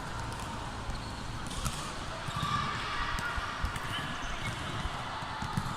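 Ball game on an indoor court: a ball bouncing with repeated low thuds on the floor, and players' voices in the background.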